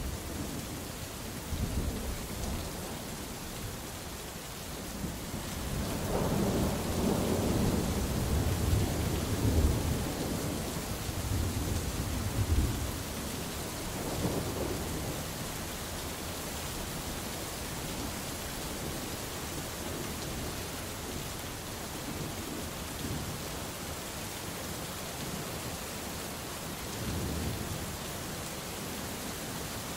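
Steady heavy rain hissing, with rolling thunder rumbling low through the first half and a fainter roll near the end.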